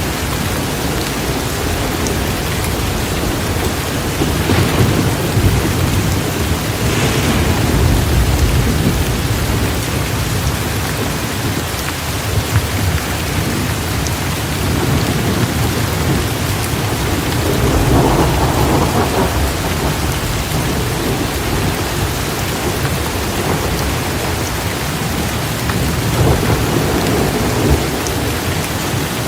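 Heavy rain pouring steadily, with low rolling thunder swelling and fading several times beneath it.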